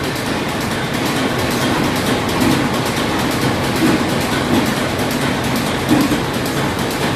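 Vintage stationary engines running steadily, a dense mechanical clatter with a rapid, even beat.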